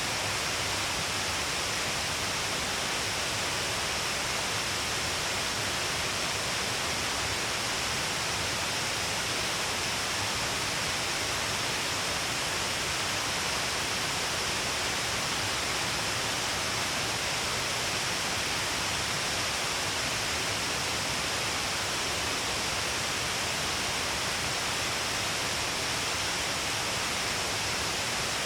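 Shiraito Falls, many streams of water falling along a wide cliff face, making a steady, unbroken rush with a bright hiss and no let-up.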